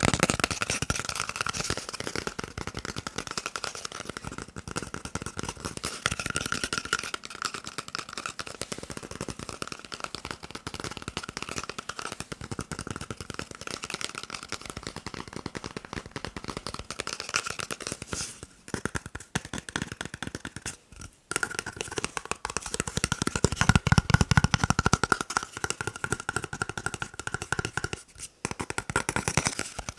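Fingers tapping and scratching fast on a paper roll, a dense, unbroken patter of small taps. The tapping grows heavier and deeper for a couple of seconds about three-quarters of the way through.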